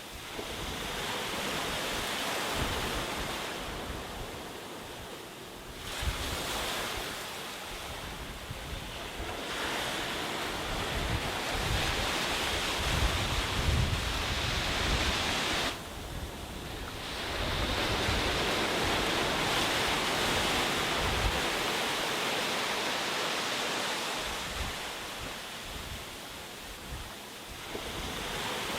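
Sea waves breaking and washing ashore, the surf swelling and fading every few seconds. Wind rumbles on the microphone.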